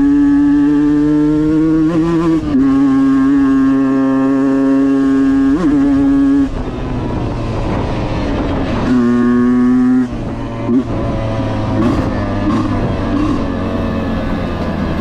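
Husqvarna enduro dirt bike engine under way, held at steady high revs with two brief dips, then backed off about six and a half seconds in. A short burst of throttle comes back near nine seconds before it drops again to lower, rougher running mixed with wind and ground noise.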